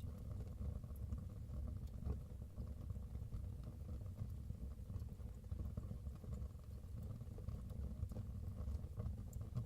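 Fire burning in a fireplace: a steady low rumble of the flames with faint, scattered crackles.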